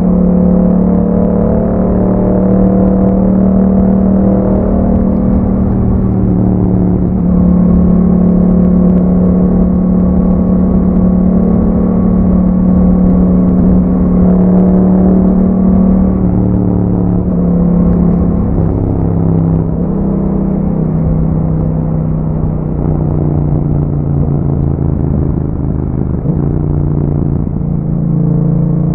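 Yamaha MT-07's parallel-twin engine running through an Akrapovic exhaust with dB killers, held at fairly steady revs while riding. The pitch shifts a little with the throttle, and near the end the revs dip and then climb again.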